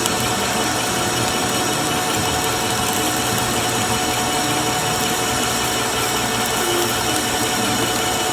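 Metalworking machine tool running steadily: an even mechanical noise with several steady pitched tones that does not change.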